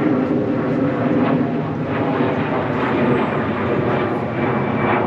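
Aircraft passing overhead: a steady engine drone.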